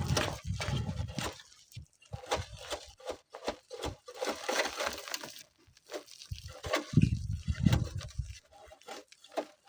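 Gusts of strong wind buffeting the microphone with a low rumble, once at the start and again about seven seconds in, with scattered short clicks and scrapes in between.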